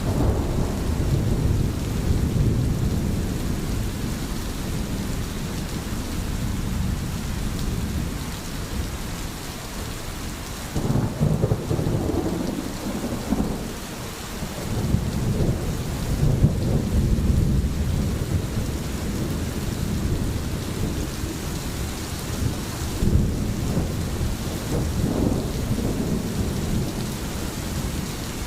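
Steady rain with low rolling thunder, the rumble swelling and fading several times.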